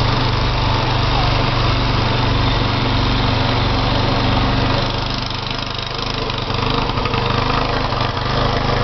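Gas snow blower engine running steadily while the machine throws snow. Its sound drops somewhat for about two seconds just past the middle.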